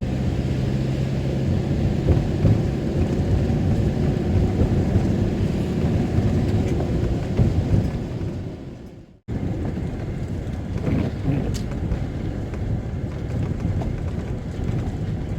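Camper van on the move, heard from inside the cab: steady engine and road noise. It fades to silence and cuts straight back in about nine seconds in.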